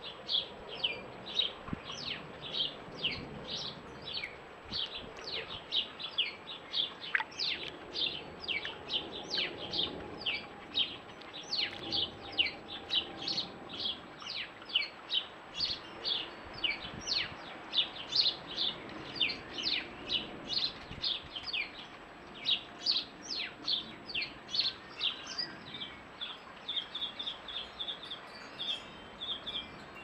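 A small songbird chirping over and over, short high notes that fall in pitch, about two a second without a break. Near the end the chirps turn shorter and flatter.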